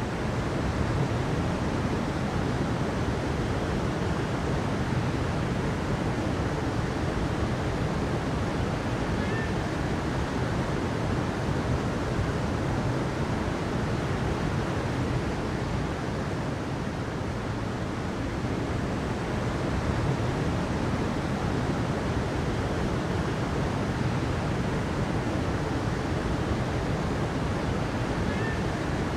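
Steady rushing of water, an even noise that does not let up.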